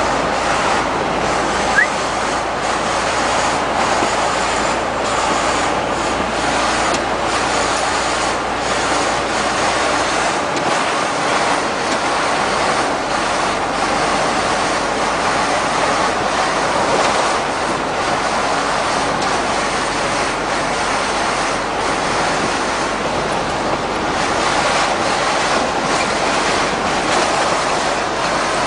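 Steady road noise of heavy trucks passing on a highway, tyres and engines without clear pitch, with wind on the microphone.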